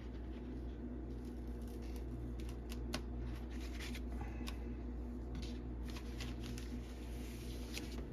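Paper being handled as a pressed comic book is peeled from parchment sheets: scattered small crinkles and ticks, the sharpest about three seconds in, over a steady low hum.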